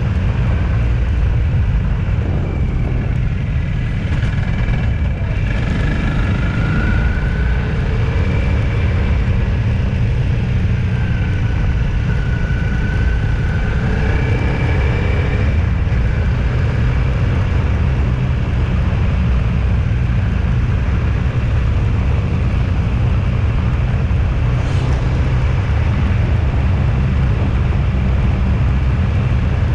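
Steady low rumble of a vehicle driving along a road, with faint engine tones that waver up and down twice in the first half.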